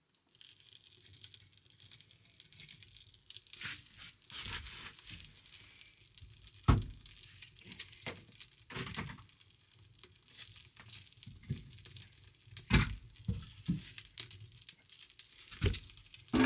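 Hands working at food preparation: crinkling and tearing with scattered sharp knocks, irregular, the loudest knocks about a third of the way in and again about three quarters of the way through.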